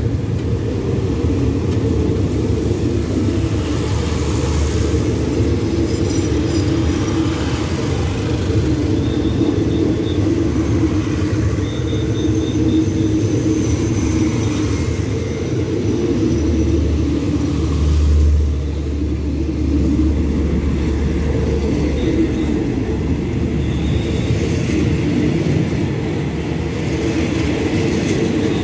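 Passenger train coaches rolling past, a steady deep rumble of wheels on the rails, swelling briefly about two-thirds of the way through.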